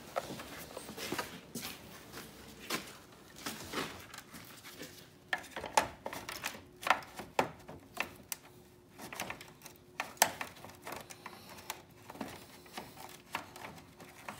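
Irregular clicks, taps and knocks of hand work on the truck's plastic grille and its fastening clips, with a screwdriver being worked on a fastener.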